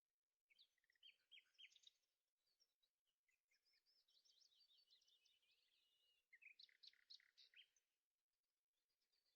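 Faint birdsong: groups of short high chirps and a rapid trill.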